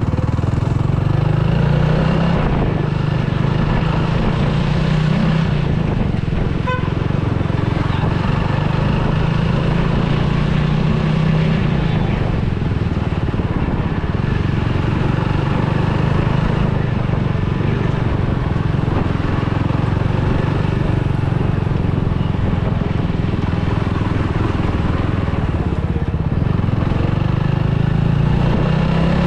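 Superbike engine running at low speed in street traffic, with a short horn beep about seven seconds in.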